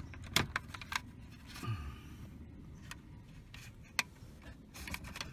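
Scattered sharp clicks and light handling noise from dashboard trim clips being pressed and pulled free as the panel around the A/C switches is unclipped.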